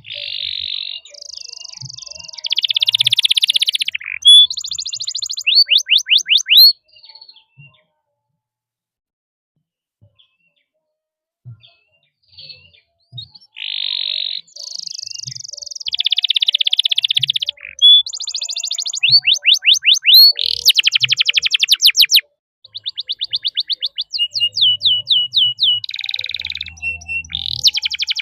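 Domestic canary singing: long buzzy rolling trills and fast runs of rising chirps, the 'cuit cuit ngerol' song of a strong singer. It falls silent for several seconds in the middle, then resumes with more rolls and a long run of repeated chirps.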